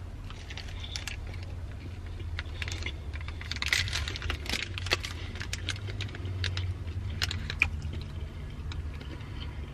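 Close-miked eating sounds: a bite into a KFC tortilla wrap with fried chicken, then chewing with wet mouth clicks, mixed with the crinkling of its paper wrapper as it is handled. The small clicks and rustles come thickest a few seconds in.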